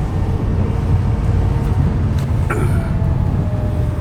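Speedboat engine running steadily: a loud, continuous low drone.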